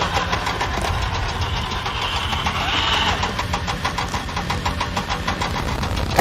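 Car engine running steadily, with a rapid, even pulsing chatter over a low rumble.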